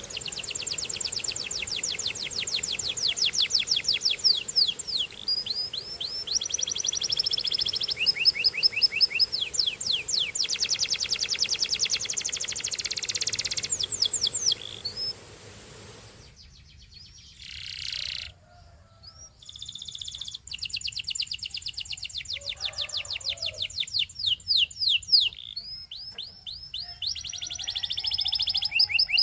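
Domestic canary singing long runs of rapid trilled notes in fast repeated tours, with a short lull about two-thirds of the way through before the song picks up again.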